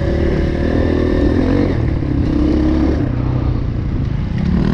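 Dirt bike engine running while riding, its pitch shifting as the throttle changes about three seconds in and climbing again near the end.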